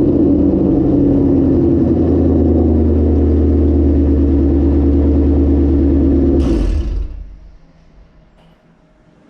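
Supercharged 2018 Ford Mustang GT V8 running at a steady fast idle after a cold start, its pitch easing down slightly at first. About six and a half seconds in there is a brief hiss, and then the engine shuts off.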